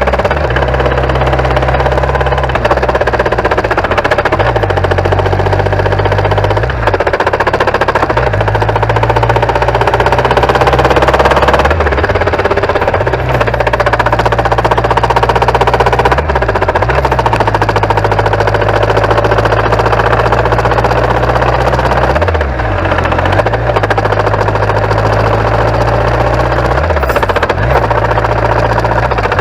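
BMW K1100LT motorcycle's inline-four engine running under way, with wind and road noise; the engine note dips briefly and recovers about four times, as the revs drop and pick up again.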